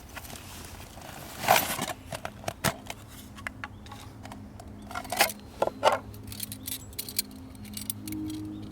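Scattered clicks and knocks of small objects being handled, with a louder scrape about a second and a half in, and background music coming in near the end.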